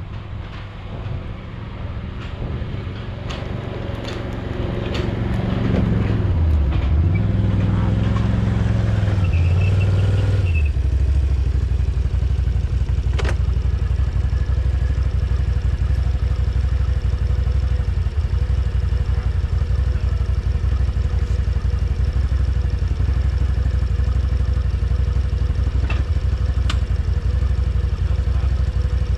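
ATV engine revving up and down several times, with a few clicks and clatters, then settling into a steady run.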